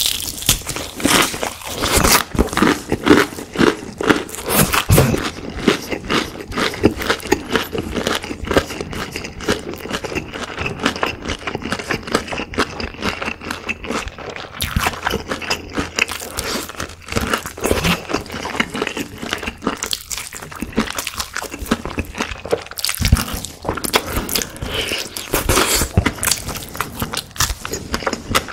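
Close-miked eating: crunching bites and chewing of crispy fried chicken, with many irregular crisp crackles in a steady run.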